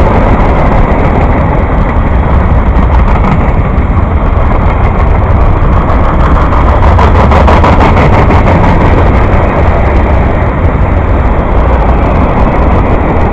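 A train passing close by: a loud, steady rumble of wheels on the rails.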